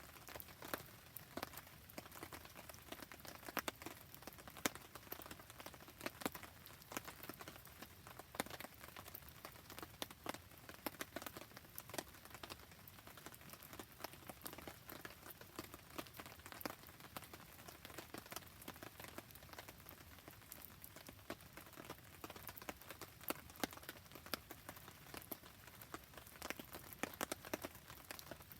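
Rain and a campfire: a faint, even patter of rain with many sharp, irregular ticks and crackles.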